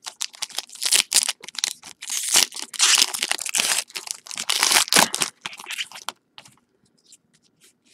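Wrapper of a trading card pack crinkling and tearing as the pack is opened by hand: a run of quick, noisy rustles for about six seconds, then only faint light taps.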